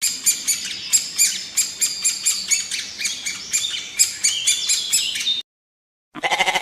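Birds calling in a quick run of short, high chirps and squawks, about four or five a second, that cuts off suddenly about five seconds in. Near the end a different short, pulsed sound begins.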